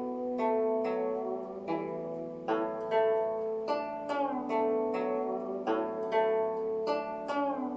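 Guzheng (Chinese zither) playing a melody of plucked notes over lower ringing strings, with a note bent downward by pressing the string about four seconds in.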